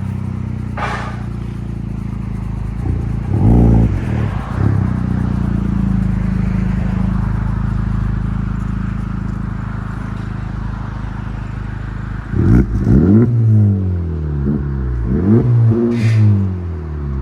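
2024 Honda Civic Type R's 2.0-litre turbocharged four-cylinder idling through an AWE cat-back exhaust. It is blipped twice about three and a half seconds in, then revved several times in quick succession from about twelve seconds in.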